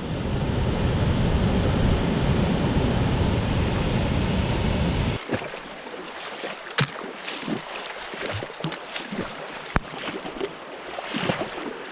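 Strong wind buffeting the microphone as a dense low rumble, which cuts off abruptly about five seconds in. After that come water splashing and lapping, with scattered short knocks and splashes from canoe paddling.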